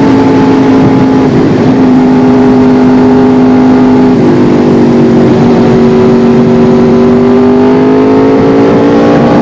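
Yamaha R1's inline-four engine running at steady riding revs over a rush of wind noise, its pitch sagging a little mid-way and then climbing near the end as the throttle opens.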